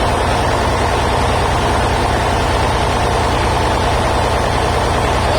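Sawmill machinery running steadily: an even, loud engine-like drone with a low hum and no change in pitch.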